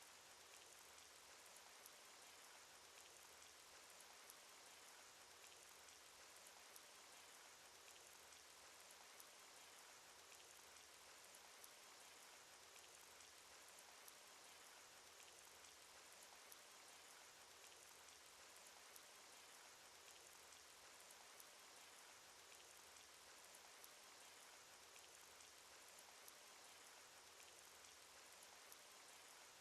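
Faint, steady cartoon rain sound effect: an even patter of rain with small scattered drop ticks.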